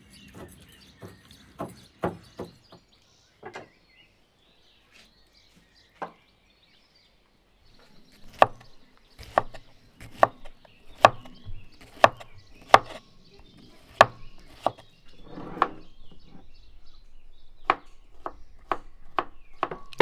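Kitchen knife dicing a peeled cucumber on a wooden cutting board: sharp knocks of the blade on the board, about one a second, starting about eight seconds in.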